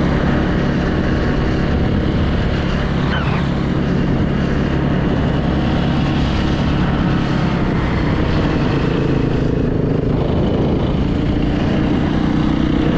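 Yamaha YZ450F's single-cylinder four-stroke engine running steadily under way, heard from a camera on the rider's helmet.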